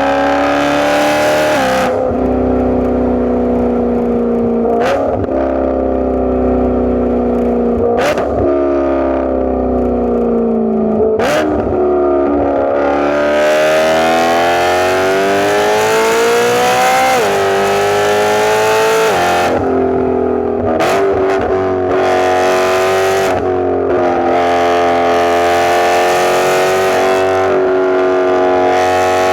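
BMW E92 M3's V8 through a straight-piped, catless exhaust with an x-pipe, driving: the engine note sinks slowly, then climbs under acceleration from about the middle. The pitch drops suddenly several times, each drop with a sharp crack from the exhaust, as at gear changes.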